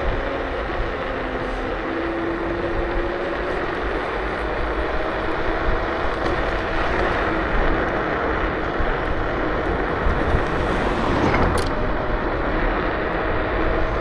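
KuKirin G2 electric scooter being ridden: a steady rush of wind and tyre noise, with a faint motor whine that drifts slightly in pitch. There is a brief click about three-quarters of the way through.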